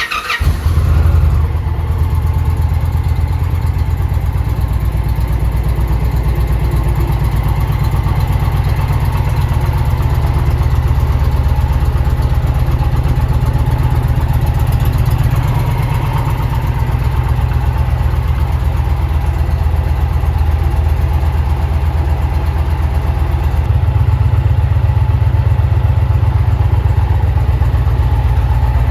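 2020 Indian Challenger's PowerPlus V-twin engine catching right at the start, then idling steadily with an even pulsing beat. The low note shifts slightly near the end.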